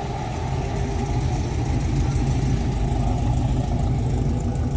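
A car engine running slowly close by, low-pitched, getting a little louder over the first couple of seconds and then holding steady.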